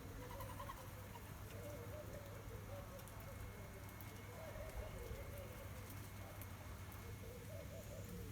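Faint, low, wavering bird calls repeating on and off, over a steady low hum.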